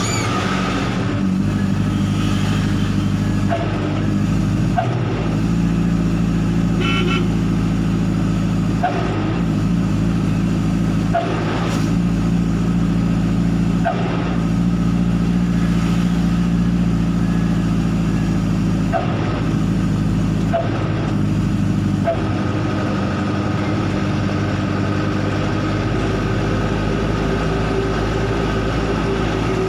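Hino Dutro truck's diesel engine running steadily through a 'srigala' (wolf) aftermarket exhaust, giving a continuous, even-pitched drone, with a few faint clicks scattered through.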